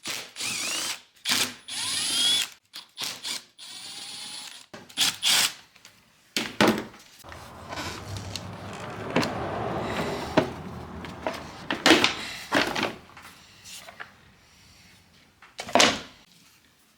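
A handheld power tool runs in many short bursts, its motor whine rising and falling in pitch. This is followed by a stretch of clanks and rattling as parts are handled.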